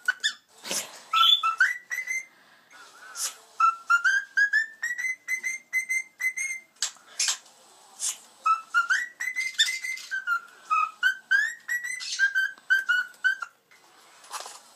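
Cockatiel whistling a song: strings of short whistled notes, one run stepping upward in pitch, broken by several sharp, loud calls.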